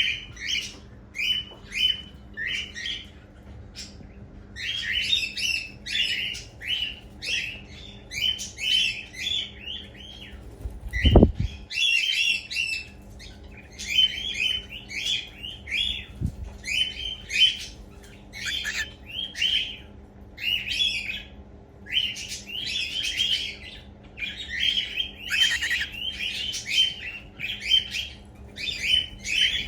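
Young cockatiel chicks calling: short calls repeated in quick runs, pausing briefly around four seconds in. A low thump sounds about eleven seconds in.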